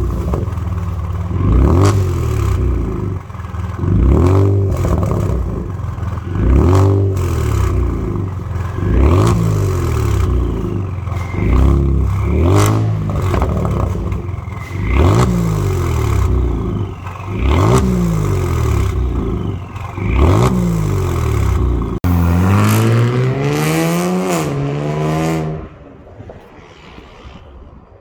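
Twin-turbo 3.3-litre V6 of a Hyundai G70 3.3T being revved through a custom dual exhaust: about ten short throttle blips, each rising and falling in pitch, with crackles and pops between them. Near the end comes one longer rev that climbs and cuts off sharply, after which the engine drops back to a quiet idle.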